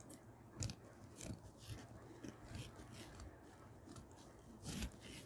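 Faint, scattered small clicks and rustles of objects being handled, about eight in all, with a slightly stronger one near the end, over a low room hum.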